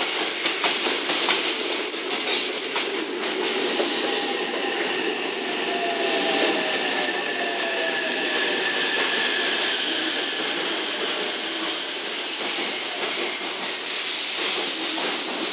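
A JR West 227 series electric train braking into the platform, its wheels clattering over rail joints with some wheel squeal and a whine that falls in pitch as it slows. Behind it, the container wagons of a freight train keep rolling past.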